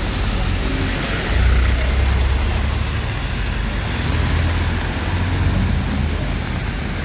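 Steady heavy rain with a deep rumble underneath that swells about a second in and again near the middle.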